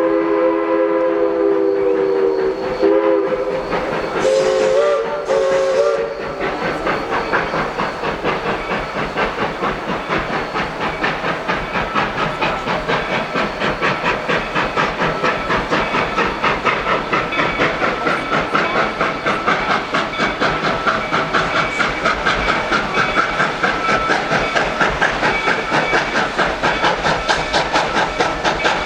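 Steam locomotive whistle sounding a chord of several tones, then two shorter blasts a few seconds in. After that comes the locomotive working: a steady, rhythmic exhaust chuff about three beats a second, with the hiss of steam.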